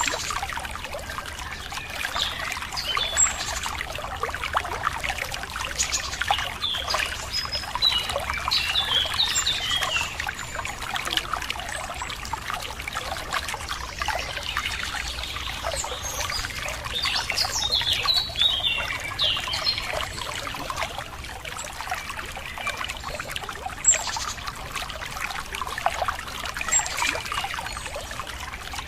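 Running water trickling and splashing steadily, with small birds chirping over it in two spells of quick calls partway through.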